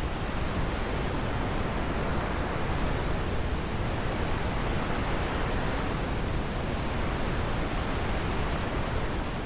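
Wind blowing steadily, with a brief higher rush of air about two seconds in.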